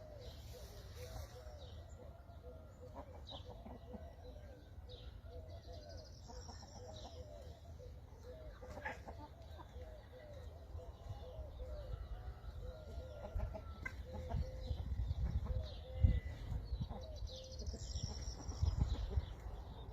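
Chickens clucking in short repeated calls, with a low rumble that grows louder in the second half and a sharp thump about sixteen seconds in.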